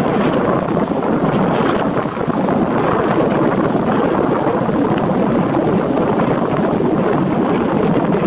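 Wind buffeting the camera's microphone: a loud, steady rumbling hiss with no pauses.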